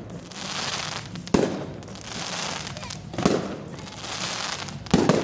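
Fireworks going off: three sharp bangs spaced nearly two seconds apart, with a steady hiss between them.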